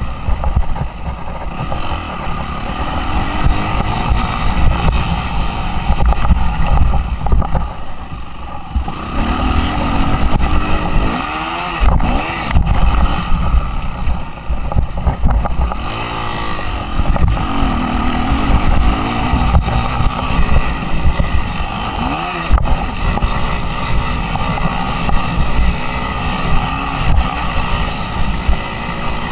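Suzuki RM-Z 250 four-stroke single-cylinder motocross engine at riding speed, its revs rising and falling again and again, with heavy wind buffeting on the microphone.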